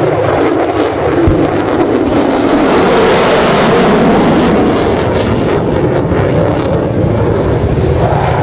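F-35C Lightning II's single turbofan jet engine roaring loudly as the fighter flies by, the noise swelling to its peak about halfway through and easing off after.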